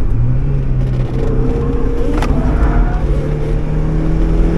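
Mazda MX-5's four-cylinder engine heard from inside the cabin, pulling under acceleration, its note rising steadily from about a second in. A single sharp click about two seconds in.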